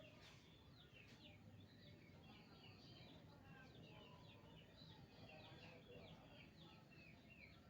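Small birds chirping faintly, a continuous run of many quick, falling chirps over a low background hum.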